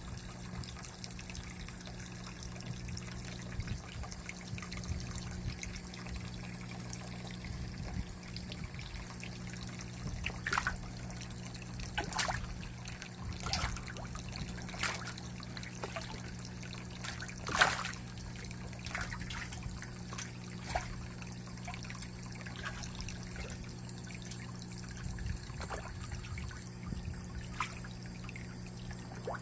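Water trickling steadily in an aquaponics system, with a low steady hum underneath. A few short sharp splashes or ticks come through the middle.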